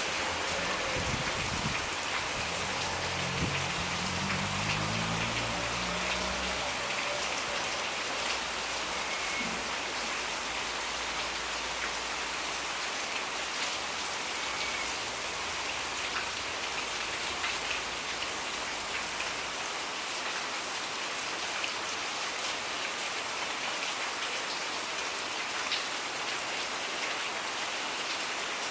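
Steady rain falling and pattering on surfaces, an even hiss with no let-up. A faint low hum sits under it for the first few seconds.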